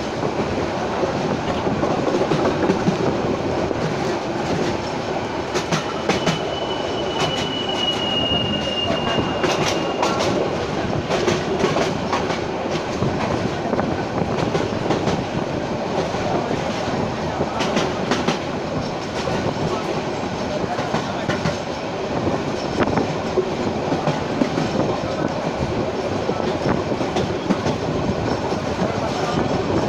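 Passenger train running at speed: a steady rumble of wheels on track with irregular clicks and knocks. About six seconds in, a faint high thin tone sounds for about four seconds, dropping slightly in pitch.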